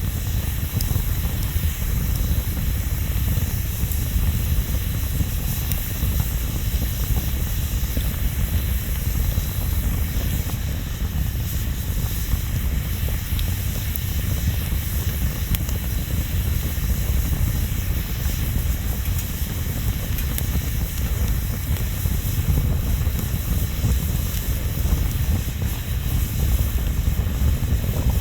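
Bonfire burning: a steady low rumble and hiss with a few faint crackles.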